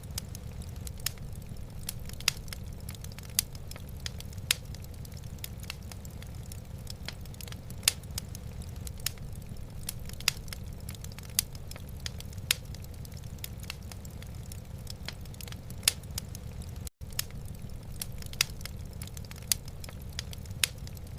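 Wood fire burning in a fireplace, with irregular sharp crackles and pops over a steady low rumble. The sound drops out for an instant about seventeen seconds in.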